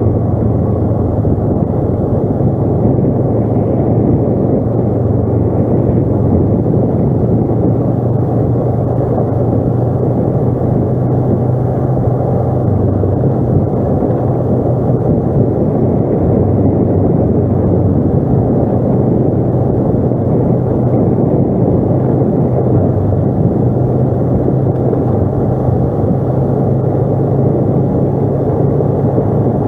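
ATV engine running steadily under way, its low hum shifting slightly in pitch now and then, over a dense rumble from the ride.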